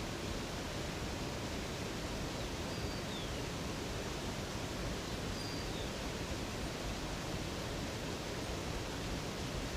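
Steady rush of flowing water from a river or waterfall. A bird gives two faint high chirps, about three and five seconds in.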